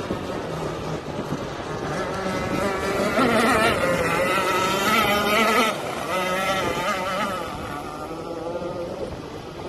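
RC power boat's motor running at speed, a pitched whine that wavers up and down, loudest about three to six seconds in, then drops abruptly and fades away.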